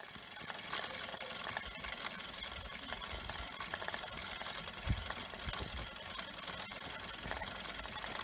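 Small live-steam model traction engines running: rapid, continuous mechanical clatter of exhaust beats and gearing, with a steady high-pitched whine and a dull thump about five seconds in.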